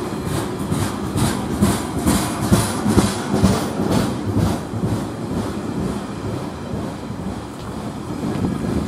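Freight train of JNA and MLA box wagons rolling past close by, with a steady rumble and a quick run of clickety-clack as the wheels pass over the rail joints, the clicks thinning out after about five seconds.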